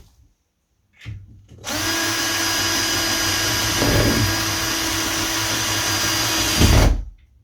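Power drill running steadily for about five seconds, boring small pilot holes through a door handle's backplate into an interior door for its tiny fixing screws. The drill starts just under two seconds in and stops near the end.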